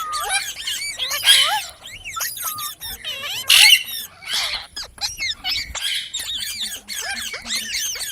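Parrots giving rapid, twittering chirps that swoop up and down in pitch, broken by several loud, harsh squawks.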